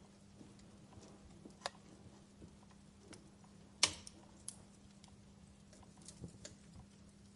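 Wood fire in a fireplace crackling: scattered soft pops and snaps, with one sharp, louder pop about half-way through, over a faint steady low hum.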